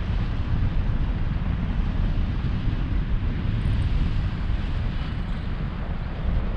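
Airflow buffeting the microphone in flight under a paraglider: a steady wind rush with a fluttering low rumble.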